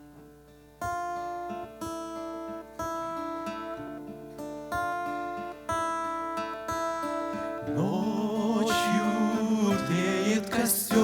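Acoustic guitar introduction to a song, a chord struck and left to ring about once a second. About eight seconds in, a wavering sung melody comes in over the guitar and the music grows louder.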